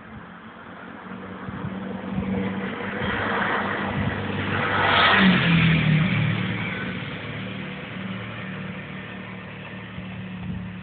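A motor vehicle passes close by: its engine and road noise build up, peak about halfway through with a drop in pitch, then fade away.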